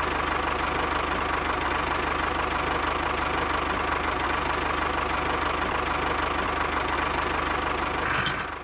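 A small motor running steadily with a fast, even rattle. It cuts off near the end.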